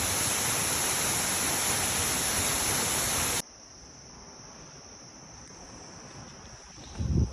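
Steady rush of falling water with a shrill insect chorus above it. About three and a half seconds in it cuts off abruptly to a much quieter insect chorus, and a short low thump comes near the end.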